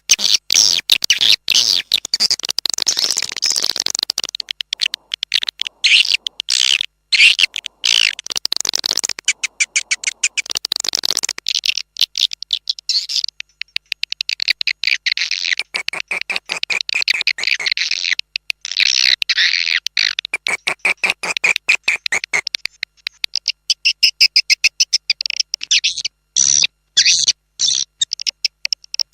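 Swiftlet calls from a swiftlet-farming lure recording: dense, rapid chattering chirps from many birds, with short breaks between the bursts. It is the external call used to draw swiftlets to a nesting house.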